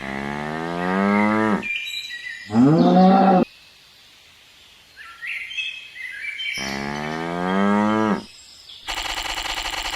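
Cattle mooing: three long drawn-out calls, each falling in pitch, the second rising first before it falls. A short, rapid buzzing sound comes near the end.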